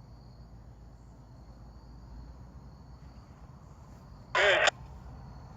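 Low steady rumble of idling diesel locomotives, with a short burst from a scanner radio about four seconds in.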